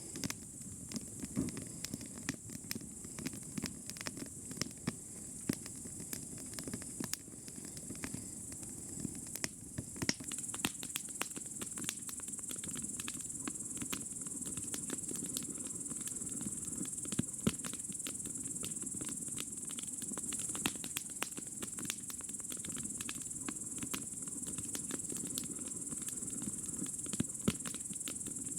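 Crickets chirping in a steady high-pitched drone, which gets louder about ten seconds in, with many scattered small crackles or clicks throughout.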